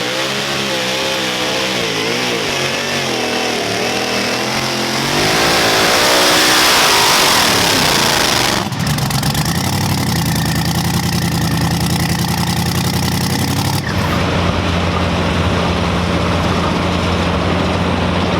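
Super modified two-wheel-drive pulling truck's engine under hard throttle during a pull, its pitch wavering, then at its loudest for about three seconds. About eight and a half seconds in it cuts off abruptly to a steady, lower running note, which changes again near fourteen seconds.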